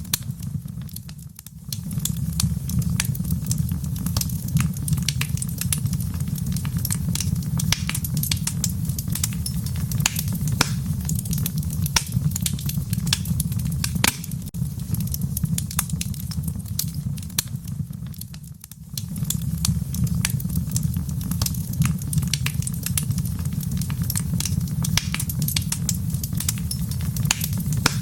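Wood fire crackling in a fireplace: a steady low rumble of the flames under a constant scatter of sharp pops and snaps. The sound dips briefly twice, about a second in and again past the middle.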